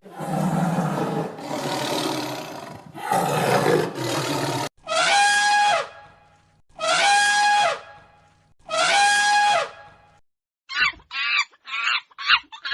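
Wild animal calls. First come three rough, noisy roaring calls, then three long pitched calls that each hold one note and drop at the end, and near the end a quick run of about five short calls.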